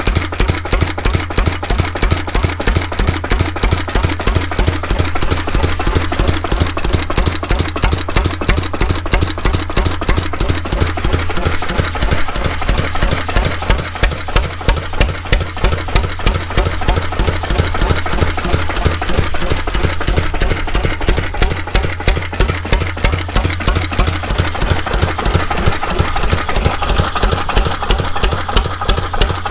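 Vintage McDonald 'Super diesel' stationary engine running steadily, with an even, rapid firing beat.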